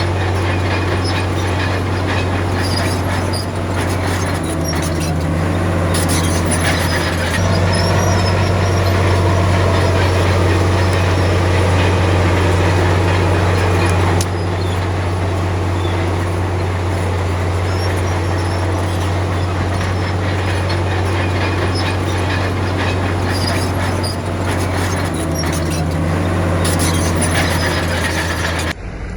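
Komatsu D53P crawler bulldozer's diesel engine running steadily with a deep drone, with rattling and squealing from its steel tracks. The engine gets louder about a quarter of the way in and eases back about halfway.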